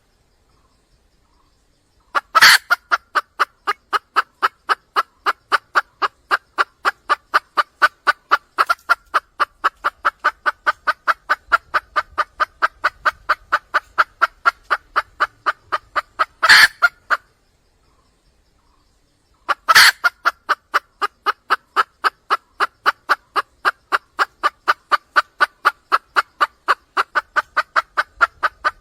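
Wild junglefowl hen calling for a mate: long runs of rapid, evenly spaced clucks, about four or five a second. Each run starts with a louder, sharper note and breaks off with a pause of about two seconds.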